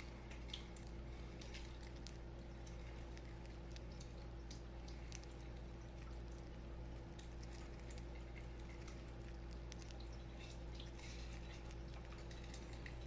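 Budgies pecking at a millet spray: faint, scattered small clicks of seeds being cracked and husked, one a little sharper about halfway through, over a steady low hum.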